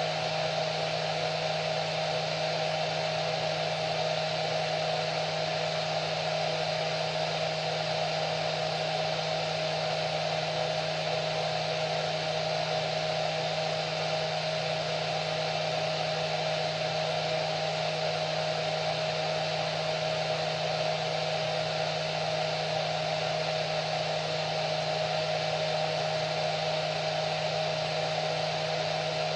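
Hair dryer running steadily: an even rush of blown air over a low motor hum and a thin, steady whine.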